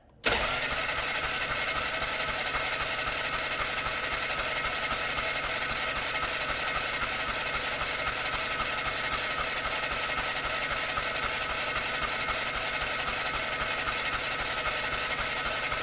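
Polaris Ranger engine cranking over on its electric starter in a steady, fast, even churn for a spark test, starting abruptly and held for about sixteen seconds without the engine firing. The spark is weak and not consistent, which the owner puts down to either a bad ignition coil or a faulty crank pickup sensor.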